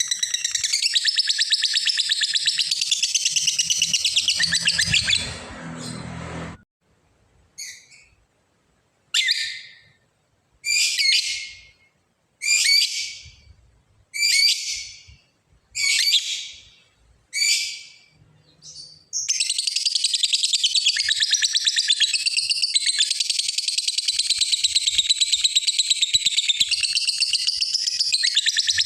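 A lovebird gives its long, rapid chattering trill (ngekek). About six seconds in it breaks off into a string of seven short, sharp, falling calls, about one every second and a half. From about two-thirds of the way through it goes back into the long rapid trill.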